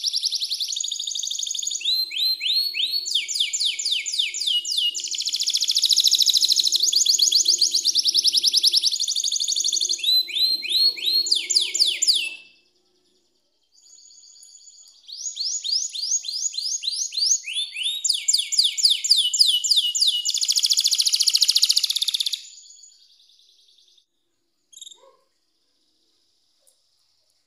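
Domestic canary singing long, high-pitched songs of fast rolling trills and rapidly repeated chirps. The song breaks off about twelve seconds in, starts again a second later, and stops a little past twenty-two seconds, followed by a single faint click. It is a canary song of the kind played to coax a silent canary into singing.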